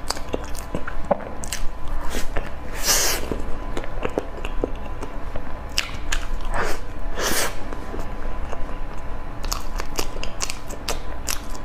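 Close-miked mukbang eating: biting into and chewing a pastry-coated piece of food, with many small wet mouth clicks and a few louder bursts about 3 and 7 seconds in.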